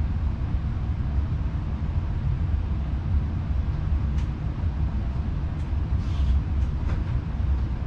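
Steady low rumble of a passenger train running at speed, heard from inside the carriage, with a few faint clicks over the second half.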